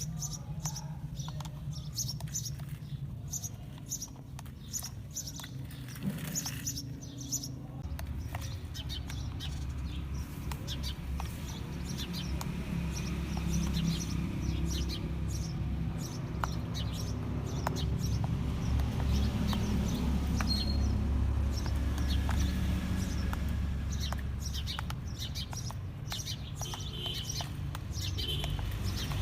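Birds chirping over and over, with a low steady rumble underneath that grows louder about a third of the way in and eases near the end.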